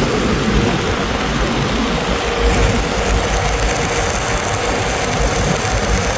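A large engine running steadily at an even speed, with a low, rapid throb.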